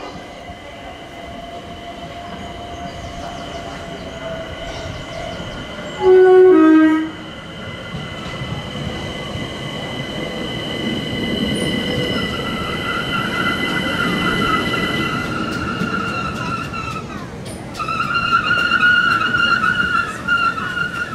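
A train running through a station with steady high-pitched wheel squeal. A loud two-note horn sounds for about a second around six seconds in, the second note lower. The running noise then grows louder, and the squeal swells again near the end.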